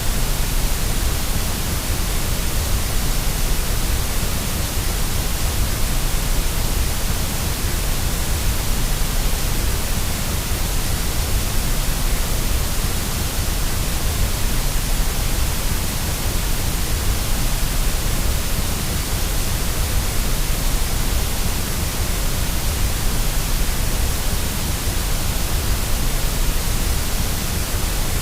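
Steady white noise for lulling a baby to sleep: an even, unbroken hiss with a strong low rumble underneath.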